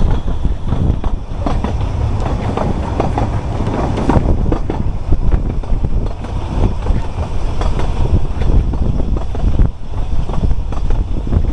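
Narrow-gauge train heard from an open carriage window as it runs along, wheels clicking and clattering over the track with a heavy, steady rumble.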